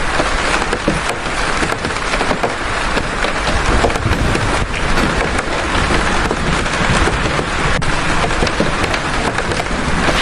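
Heavy rain falling steadily: a dense, even hiss thick with the patter of many individual drops striking a surface.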